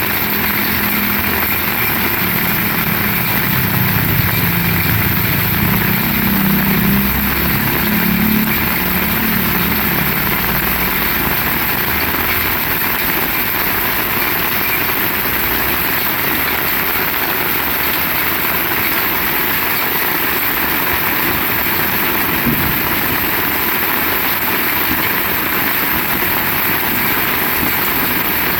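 Heavy rain falling, a steady loud hiss. A low rumble sits under it for the first nine seconds or so, then fades.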